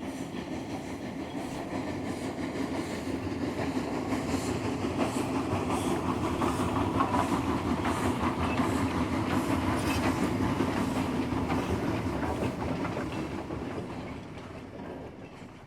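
Steam train running along the track: a steady rumble with a faint regular beat of wheels over the rails, fading out over the last couple of seconds.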